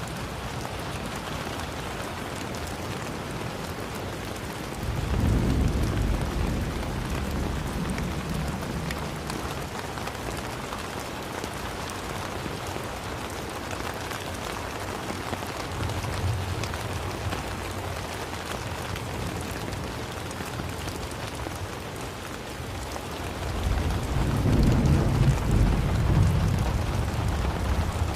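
Steady rain falling, an even hiss of drops. Twice a deep rumble swells up for a few seconds, about five seconds in and again near the end.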